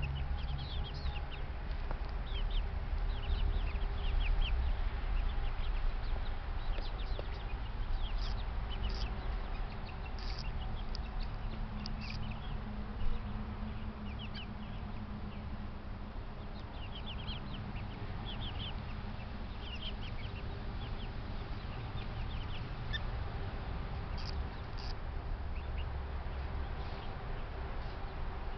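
Backyard chickens clucking, with many short high chirps scattered throughout over a low rumble. A single sharp knock comes about thirteen seconds in.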